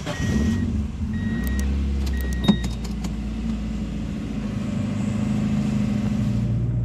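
Car engine idling steadily at low revs. A short high beep repeats about once a second over the first few seconds, and there is a single sharp click a little past two seconds in.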